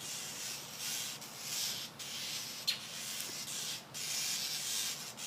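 A rustling hiss that swells and fades in waves, with one sharp tick about two and a half seconds in.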